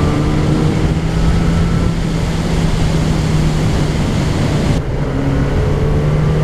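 Sport motorcycle engine running at a steady cruise with a slowly rising note, under heavy wind rush on the microphone; the wind hiss drops sharply about five seconds in.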